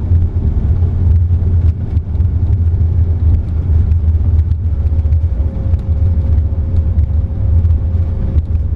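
Steady low rumble on the flight deck of an Airbus A330-300 during the landing rollout: the engines in reverse thrust and the wheels running on the runway as the airliner decelerates under autobrake. A faint steady tone comes in about five seconds in.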